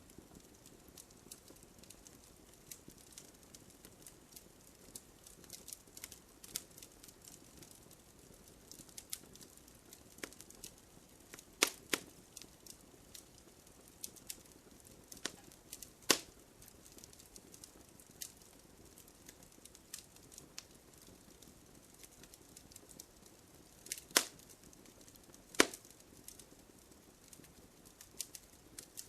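Wood fire crackling, with a steady run of small snaps over a low hiss and a handful of louder, sharper pops near 12, 16, 24 and 26 seconds in.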